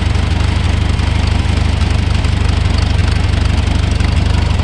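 80 hp International tractor's engine running steadily, a loud low hum with a rapid even pulse.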